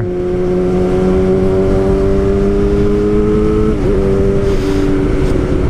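Sport motorcycle engine pulling at steady, high revs, its note creeping slowly upward, with a brief dip and drop in pitch about four seconds in, under heavy wind rush on the helmet microphone.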